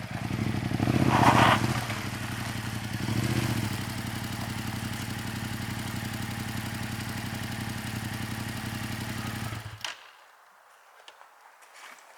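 Yamaha XSR700 motorcycle's parallel-twin engine idling, revved briefly twice in the first few seconds, then switched off suddenly just before the end, leaving a few faint clicks.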